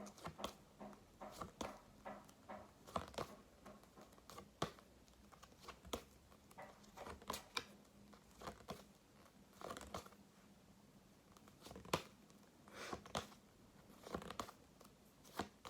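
Faint rustles and light taps of flashcards being handled and flipped over one after another, at an irregular pace of about one or two a second.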